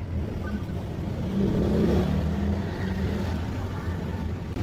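An engine running steadily with a low hum, getting louder about a second and a half in.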